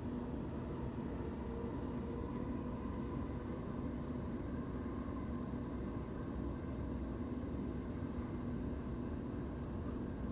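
Steady running noise inside a moving electric suburban passenger train: a low rumble from the wheels on the track with a steady hum over it.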